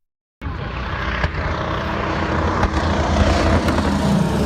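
Convair 340 propliner's twin Pratt & Whitney R-2800 radial piston engines and propellers running during takeoff, a steady low drone with a rushing noise. It cuts in abruptly about half a second in.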